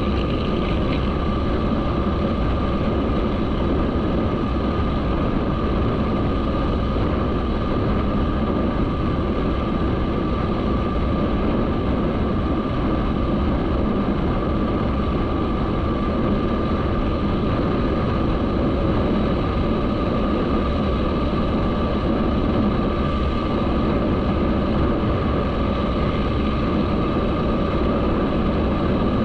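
Motorcycle engine running at a steady, unchanging pace, with a constant steady tone over a dense rumble and no rise or fall in revs.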